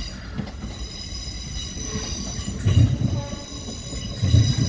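A train passing slowly through the station, its wheels giving a steady high-pitched squeal, with two heavy clunks in the second half as wheels cross rail joints or points.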